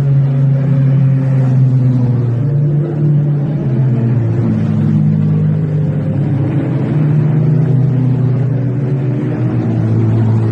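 A sports car's engine and exhaust running steadily at low revs, a loud deep rumble with small wavers in pitch.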